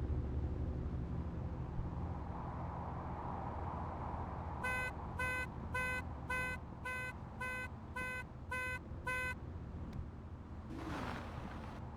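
A run of nine loud electronic beeps, about two a second, like a vehicle's alarm or reversing beeper, over a car engine idling steadily. A short whoosh comes near the end.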